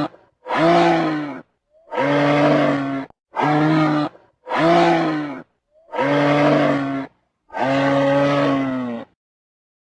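Camel calling: a run of about seven low, drawn-out calls, each lasting about a second, with short pauses between them.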